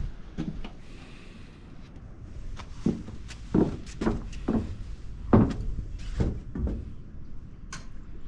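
Irregular clunks and knocks of a spanner and hands working on a big Rolls-Royce diesel engine, about ten sharp knocks at uneven intervals, as an injector is cracked open before the engine is turned over.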